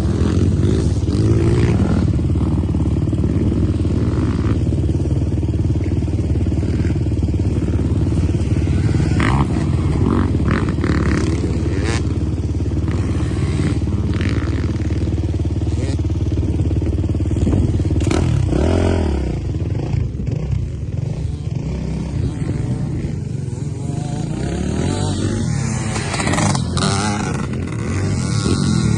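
Dirt bike engine running continuously on an off-road track, its revs rising and falling, with scattered short knocks and rattles.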